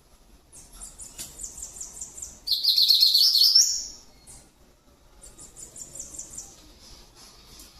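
Double-collared seedeater (coleiro) singing: a run of quick high chips, then a loud buzzy phrase that rises in pitch about two and a half seconds in, then another run of quick chips.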